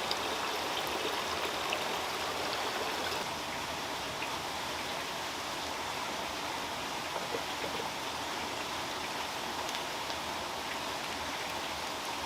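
Running water: a steady, even rush with a few faint ticks scattered through it.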